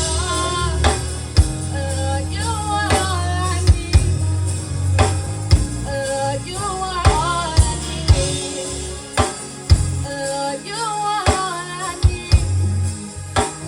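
Live gospel band playing: a vocalist sings a slow, ornamented melody with long bending notes over a heavy bass line and drum-kit hits.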